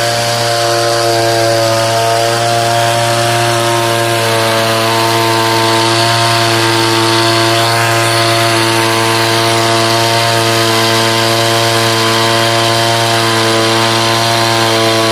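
Engine of a power sprayer running steadily at constant speed, with an even, unchanging pitch. It is a test run after the valves and spray-gun nozzle were checked for a low-pressure fault.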